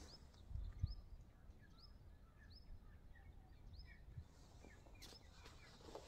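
Small birds calling faintly: a short, high, rising chirp repeated about once a second, with softer, lower twittering calls joining in over the second half. A low muffled thump comes just under a second in.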